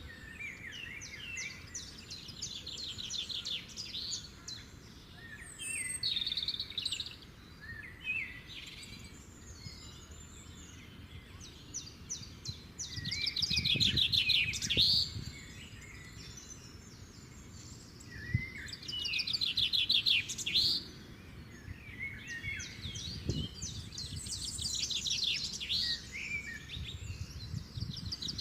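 Birds singing, with rapid trilled phrases that recur every few seconds, mixed with higher chirps.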